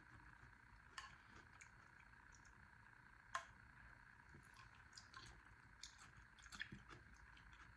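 Quiet eating sounds from a bowl of pho: a few faint, sharp clicks of utensils and soft mouth sounds, over a steady faint background hum.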